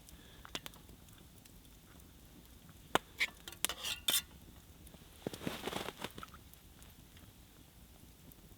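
Camp mug and utensils being handled while tea is made: scattered light clinks and knocks, a quick cluster of them about three to four seconds in, then a short hissing stretch about five to six seconds in.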